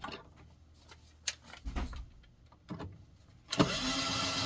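A few light knocks and clicks of parts being handled, then a small handheld power tool's motor, a drill/driver, runs in one burst of a little over a second near the end, driving in the screw for the motor's ground wire.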